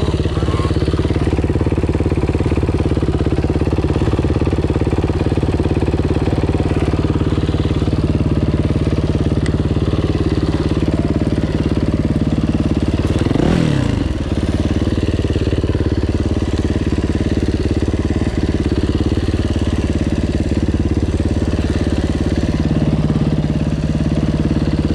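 Yamaha dirt bike engine running steadily under a rider while being run in, with a brief drop and rise in revs about halfway through.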